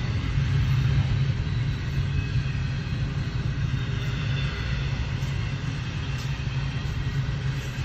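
Long double-stack container freight train rolling past, a steady low rumble of the cars going by.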